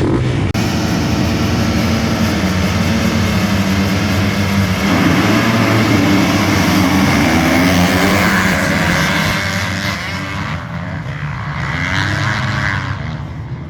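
Motocross dirt bike engines running hard in a loud, steady drone that swells about five seconds in and eases off near the end.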